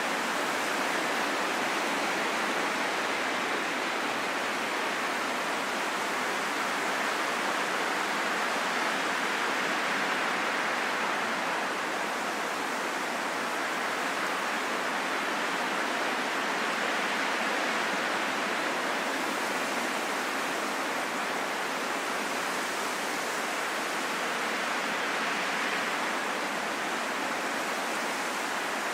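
Steady rain in a forest: an even, unbroken hiss with no single drops, thunder or birds standing out.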